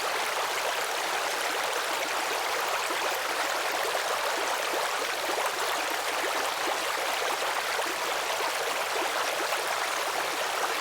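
Running water of a stream, steady and even with no breaks.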